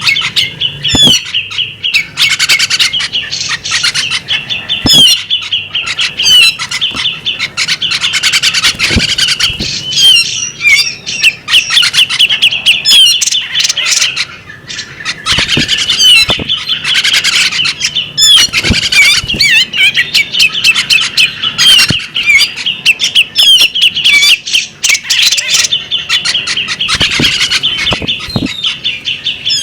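Female magpie-robin singing a loud, continuous run of rapid chirps, whistles and trills, with a few short knocks mixed in.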